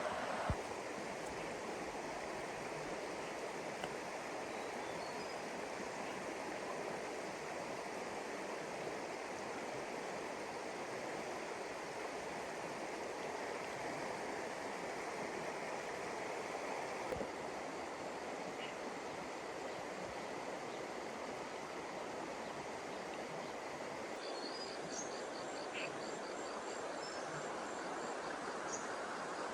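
Steady rush of flowing floodwater. Near the end an insect starts a high, rapidly pulsing trill.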